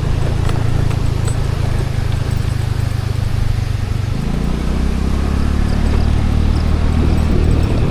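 Scooter engine running over a steady haze of road and wind noise; the engine's note changes about four seconds in.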